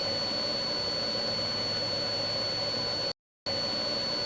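Steady turbine and rotor drone of a police helicopter heard through its cabin intercom, with a fixed whine over the rush. It cuts out completely for a moment about three seconds in, then comes straight back.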